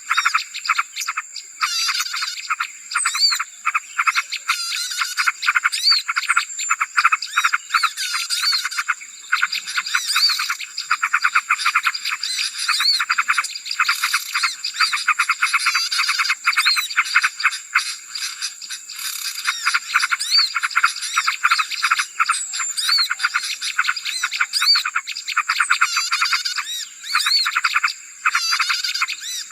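Noisy bird-lure chorus of many small songbirds chirping and trilling over one another in rapid, overlapping calls. A steady thin high tone runs beneath the chatter.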